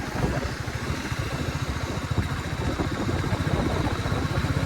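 Royal Enfield Meteor 350's single-cylinder engine running on the move, a fast, even thudding exhaust pulse under road and wind noise.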